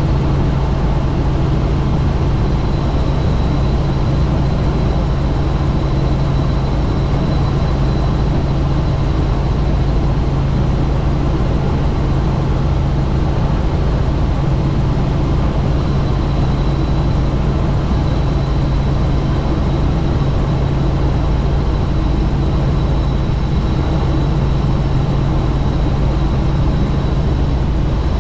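Helicopter in flight with its doors off: a steady, loud drone of rotor, engine and rushing air, with a low hum under it and a thin high whine above.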